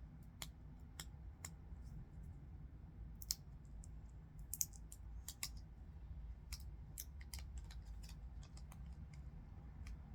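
Irregular small clicks and crinkles of paper and tape being handled during crafting, a couple of them louder, over a low steady hum.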